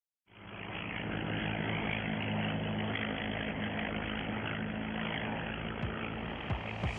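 Propeller-driven light aircraft, a de Havilland Chipmunk, with its piston engine running in a steady drone that fades in quickly at the start. Music begins to come in near the end.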